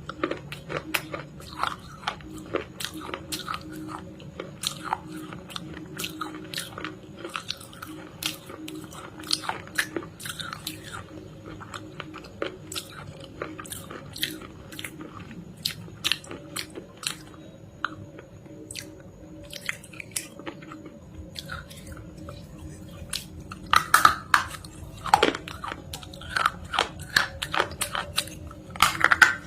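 Close-up crunching of something hard and brittle being bitten and chewed: a dense run of sharp cracks and crunches, loudest in a cluster a little over three-quarters of the way through and again near the end.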